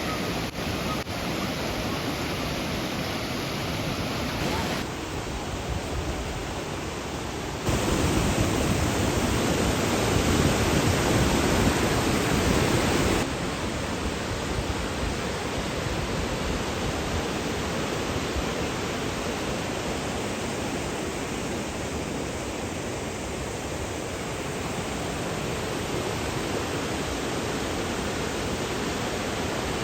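Steady rushing of water from a spring-fed waterfall, a dense even roar. Its loudness and tone jump abruptly three times, and it is loudest for a stretch in the first half.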